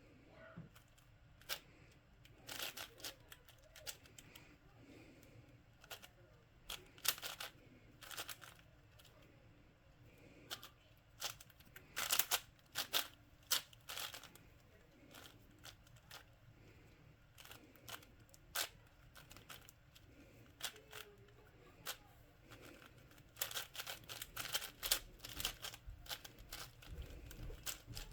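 A plastic puzzle cube being turned by hand: quick flurries of clacking layer turns separated by short pauses.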